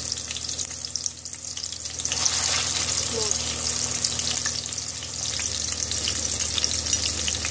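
Chicken tikki patties shallow-frying in oil in a stainless steel pan: a steady sizzle full of small crackles. It dips briefly about a second in, then picks up again.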